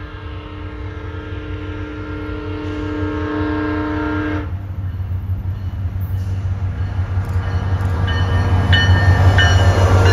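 A diesel passenger train's horn sounding one long chord that cuts off about four and a half seconds in, over the low rumble of the train, which grows steadily louder as it comes closer. Short high tones sound a few times near the end.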